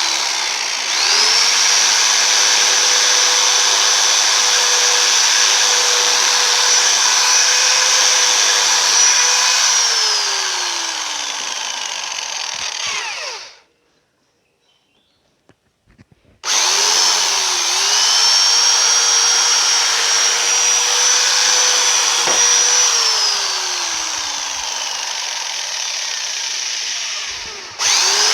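Electric drill boring out a rivet in a mixer motor's bushing plate. It runs in two long stretches with a pause of about three seconds between them. Near the end of each stretch its whine slides down in pitch as the bit bites into the rivet, and it starts up again at the very end.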